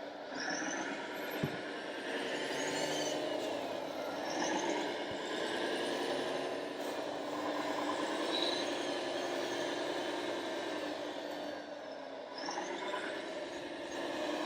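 Radio-controlled model trucks and construction machines running, their motors whining up and down in pitch as they speed up and slow, several at once. A single sharp click comes about a second and a half in.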